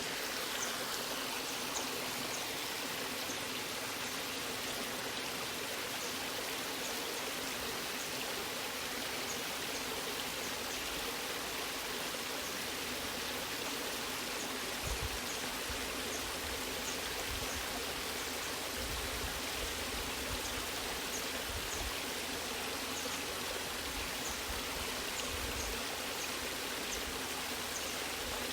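Waterfall and stream water rushing steadily, with faint low thumps now and then in the second half.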